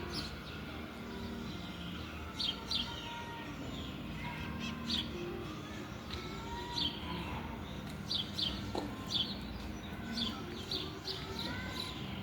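Birds chirping: short, quick downward chirps, often in pairs, coming at irregular intervals over a steady low background hum.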